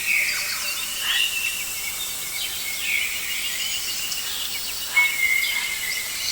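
Rainforest birds calling and chirping over a steady hiss of insects, with a held whistled note starting about five seconds in.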